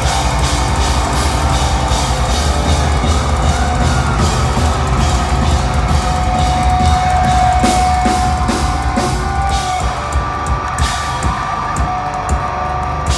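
Metalcore band playing live: drum kit hammering out a dense beat over heavy bass and held guitar tones. About ten seconds in the playing thins to spaced, separate hits, near the close of the song.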